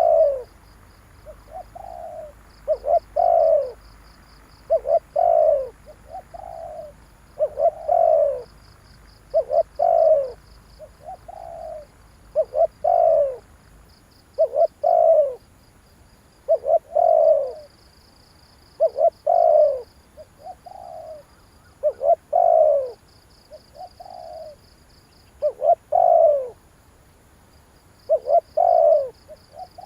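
Spotted dove cooing over and over, a phrase repeated about every two to two and a half seconds: a loud double coo, then a softer note. It is the call played to provoke a caged decoy dove into cooing back. Faint high-pitched trilling runs behind it.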